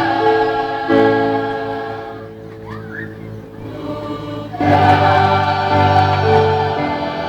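Choir singing slow, sustained chords of a gospel song; the sound thins out about two seconds in and swells back louder on a new chord near five seconds in.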